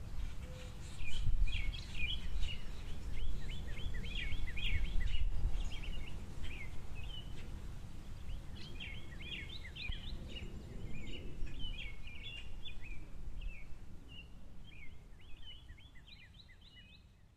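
Small songbirds at a seed feeder chirping and twittering in quick, overlapping calls over a steady low rumble. The sound fades out over the last few seconds.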